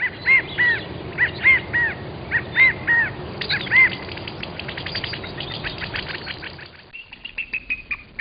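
Bird calls: short arched calls, mostly in pairs, for the first few seconds, then a rapid run of clicking chirps and a high fast trill near the end, over a steady background hiss.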